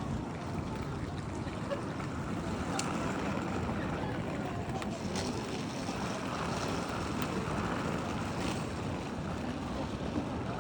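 Steady background noise of a railway station hall, with faint distant voices and a few sharp clicks.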